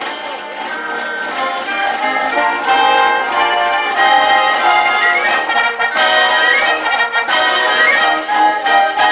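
Ensemble music played live, with brass instruments carrying held notes and a moving melody.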